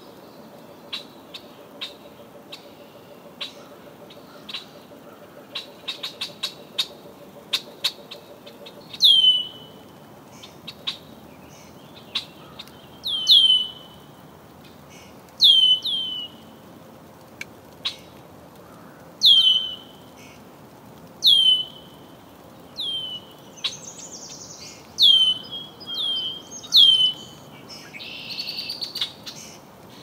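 Songbird calling: a clear note that slides down and levels off, repeated about every two seconds from about nine seconds in. Before that comes a scatter of short, sharp chips.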